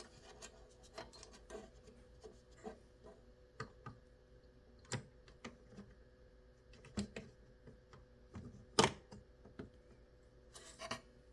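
Scattered small clicks and taps of plastic and metal parts being handled while a CPU fan is fitted into a desktop PC case, over a faint steady hum. The sharpest click comes about nine seconds in.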